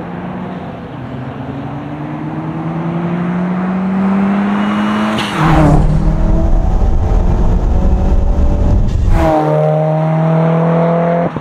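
Modified 2018 Subaru WRX's turbocharged flat-four with an Invidia catback exhaust, its resonator deleted, pulling under load, the engine note rising steadily for about five seconds. Then the sound changes abruptly twice, each time with a brief sweeping rush, into a steadier engine drone over heavy low rumble.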